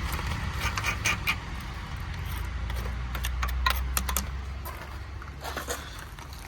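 Sharp metallic clicks and clinks in small clusters over a steady low rumble, typical of tools and metal parts being handled during mechanical work.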